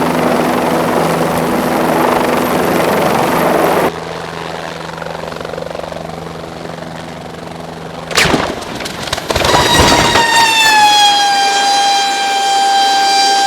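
Helicopter engine and rotor noise that cuts abruptly to a quieter steady hum. About eight seconds in comes a loud crash-like impact, followed by a steady high whine that dips slightly in pitch and then holds.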